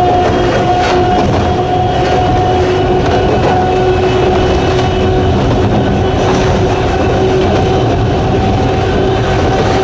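Sangi Railway Hokusei Line narrow-gauge electric train running at a steady speed. Its nose-suspended traction motors give a steady two-note whine over the rumble of the wheels.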